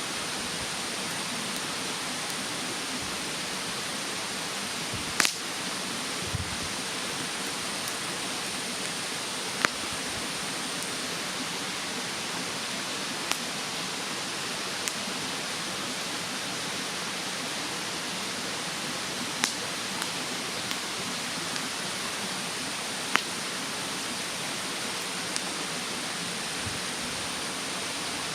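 Wood fire in a fire stand crackling with about a dozen sharp pops, the loudest about five, ten, nineteen and twenty-three seconds in, over the steady rush of a mountain stream. A thin, steady high buzz of insects runs underneath.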